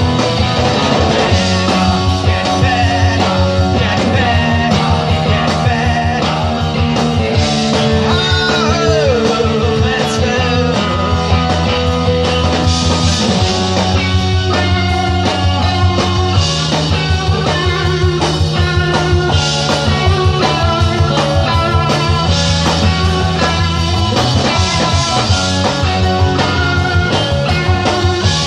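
Rock band playing live, loud and steady, with a guitar bending notes about eight seconds in.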